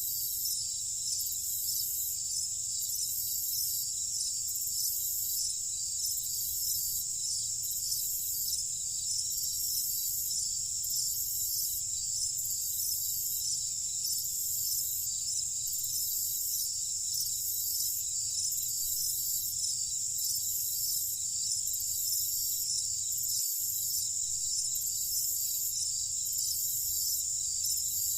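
Night insects, crickets, trilling continuously at a high pitch. A second high insect call pulses in an even rhythm about once every second and a half, over a faint low rumble.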